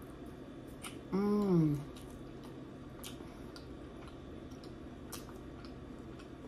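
A person chewing a bite of sauced lamb chop, with faint wet mouth clicks and smacks scattered through. About a second in comes a short hummed "mm" that rises and then falls in pitch.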